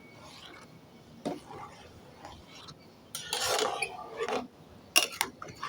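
A metal spoon working in a kadai of dal: a knock about a second in, a stretch of scraping about halfway through, and a few sharp clinks against the pan near the end.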